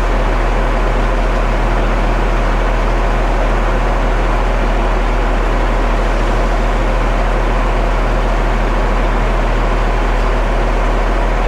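Concrete mixer truck's diesel engine running steadily, a constant low hum under a loud even rush with no change in pitch.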